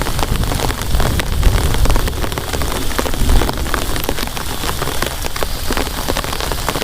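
Heavy rain falling, with many separate drops striking a surface close by over a steady low rumble.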